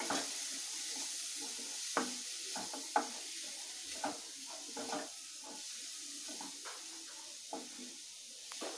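Drumsticks and black-eyed peas with spice powders sizzling in a kadai on a low flame, with a steady hiss. A wooden spatula scrapes and knocks against the pan at irregular moments as the mix is stirred.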